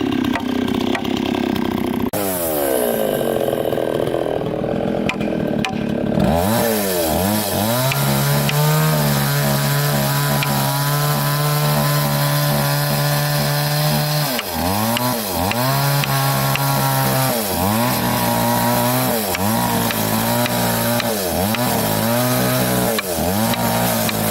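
Chainsaw cutting wood. The engine winds down for a few seconds, then holds steady at high revs under load for about eight seconds, then revs up and down about once a second near the end.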